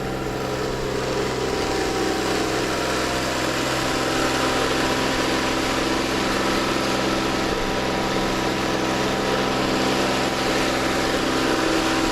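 A boat's engine running steadily under way, with a steady hum of several tones over a wash of noise. It grows slightly louder over the first couple of seconds, then holds.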